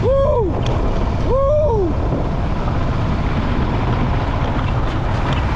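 Steady low rumble and rushing noise of a motorcycle ride in the open air. Near the start, two short calls rise and fall in pitch over it.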